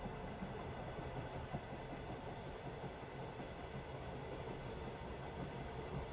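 Steady rumble and hiss of a moving passenger train, heard from inside the carriage.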